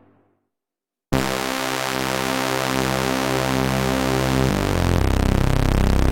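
Waldorf Pulse 2 analog monosynth: the previous patch fades out, then after a brief silence a new bass preset starts about a second in as a sustained, harmonically rich note. The note changes around four and a half seconds in and then pulses rapidly.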